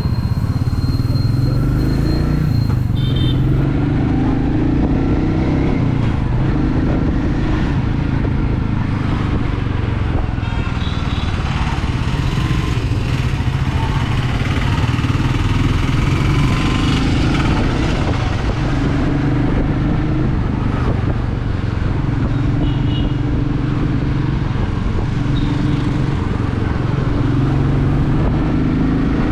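Royal Enfield Meteor 350's single-cylinder engine running at a steady cruising speed, its exhaust note even with little change in revs, over a haze of wind and road noise.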